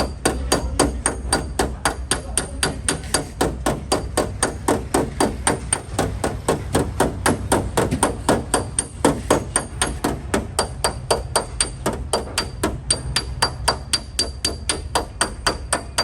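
Hammer tapping rapidly and steadily on the sheet-metal body panel of a Chevrolet Optra, about four to five strikes a second, each with a high metallic ring. This is cold dent straightening of the panel by hand.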